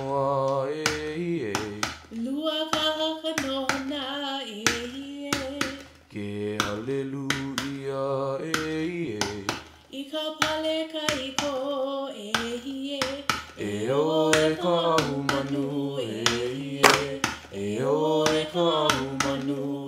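A chanter's voice performing a Hawaiian hula mele in long, wavering held notes, over a steady beat of sharp percussion strikes about twice a second.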